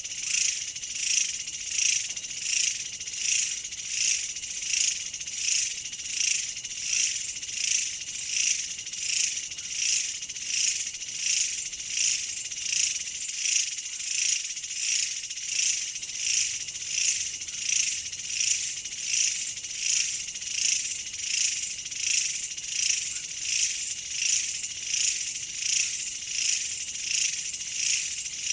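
Insects calling in a high-pitched chorus that swells and fades in an even rhythm, about three pulses every two seconds.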